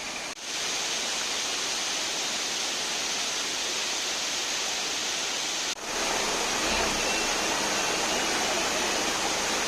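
Waterfall rushing: a steady, dense roar of falling water. It drops out for a split second twice, just after the start and about six seconds in.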